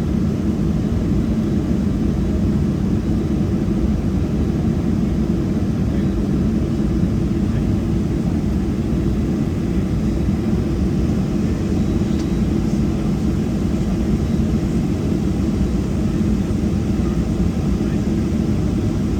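Steady low rumble and hum inside the cabin of a Boeing 737-700, its CFM56-7B jet engines at idle during the taxi out, with no spool-up yet.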